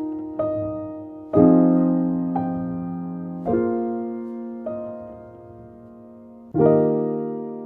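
Soft, slow piano background music: chords struck every second or two and left to ring out and fade.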